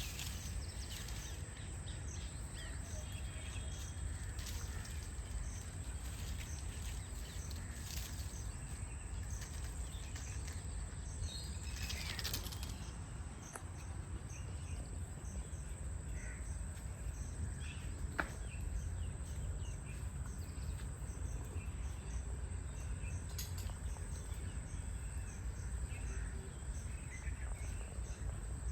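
Forest ambience: a steady low wind rumble under scattered short bird chirps and calls, with one louder bird call about twelve seconds in and a thin steady high tone throughout.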